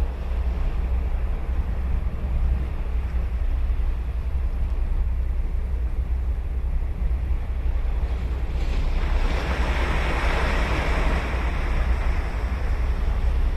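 Ocean surf over a steady low rumble. About two-thirds of the way through, a wave breaks and its wash swells, then fades.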